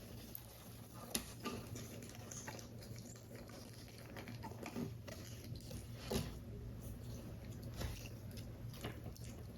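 Close-up handling of paper and card pieces while assembling a paper model: scattered soft taps, clicks and rustles, the sharpest about a second in and about six seconds in, over a faint steady low hum.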